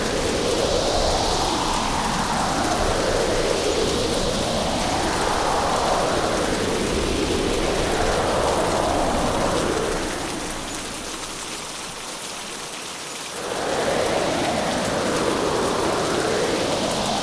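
Hurricane ambience: heavy, steady rain with gusting wind, a whooshing that rises and falls in pitch every couple of seconds. About ten seconds in it eases and turns duller for a few seconds, then swells back up.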